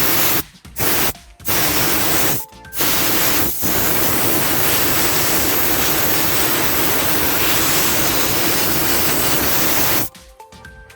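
Compressed-air spray of diesel hissing loudly onto steering-rack parts to wash them. The trigger is released briefly three or four times in the first few seconds, and the spray stops about ten seconds in.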